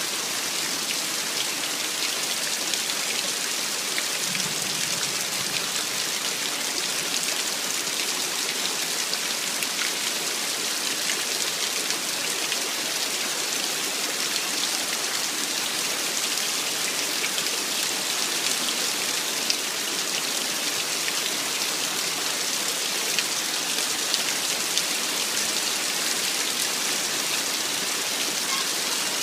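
Heavy rain falling steadily: a dense, even hiss of drops with a few sharper taps scattered through it.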